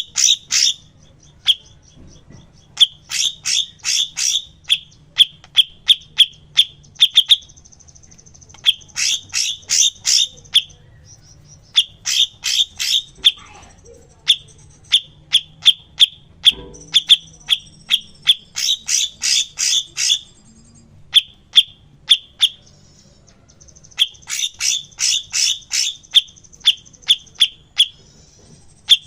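Cucak cungkok song from a bird-training recording: runs of sharp, quickly repeated chipping notes, a few seconds each, separated by short pauses and brief high trills.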